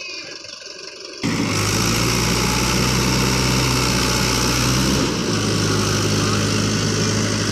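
Tractor engine running steadily and loudly. It comes in abruptly about a second in, and its note shifts slightly around five seconds in.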